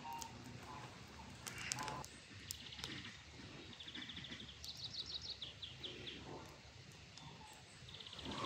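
Faint outdoor ambience with a small songbird singing short, rapid trills several times.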